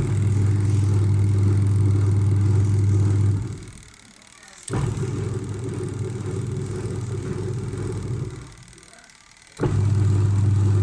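LG semi-automatic washing machine's wash motor running in bursts with a strong mains hum, stopping for about a second and starting again with a click, three runs in all. This is the wash timer cycling the pulsator on and off, being tested after its wiring was corrected.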